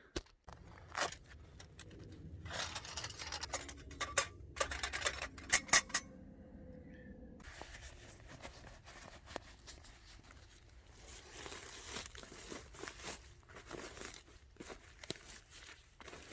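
Rustling, crinkling and sharp clicks of things being handled, loudest in the first few seconds, then a run of finer crackles from about seven seconds in.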